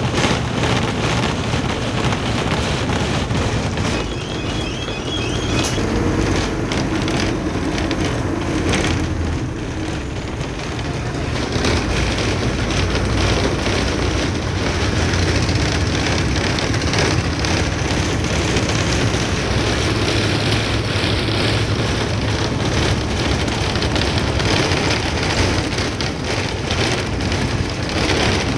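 A truck on the move, heard from inside the cab: steady engine rumble and road noise.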